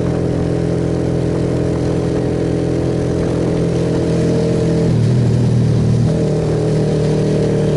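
Suzuki Yes motorcycle's single-cylinder engine running steadily under way, with a haze of road and wind noise; about five seconds in the engine note changes for a second, then settles into a steady run again.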